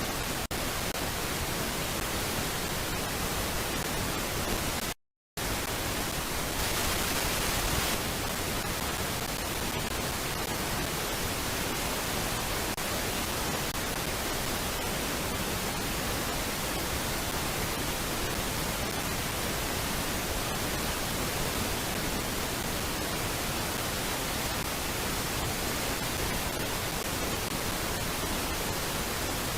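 Steady, even hiss from the nest camera's audio feed, with no bird calls. It cuts out completely for about half a second around five seconds in, then comes back slightly louder for a moment.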